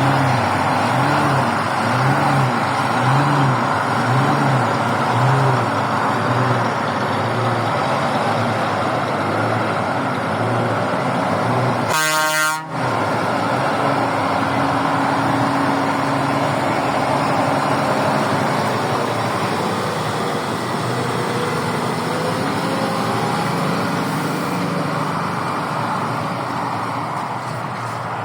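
Scania truck running loudly, its low pitch rising and falling about once a second in the first few seconds before settling steadier. The sound breaks off briefly about twelve seconds in.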